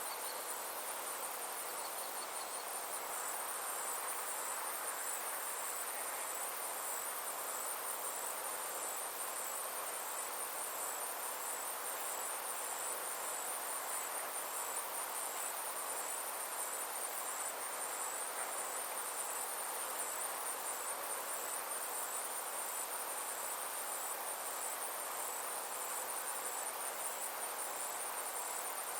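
Insects trilling steadily in a high, evenly pulsing chorus over a soft background hiss: a summer insect chorus.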